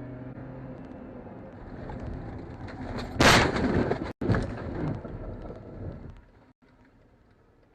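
Car collision caught on a dash camera: road and engine noise, then one loud crash bang a little over three seconds in, followed by a couple of seconds of noise. It drops to a faint ticking near the end.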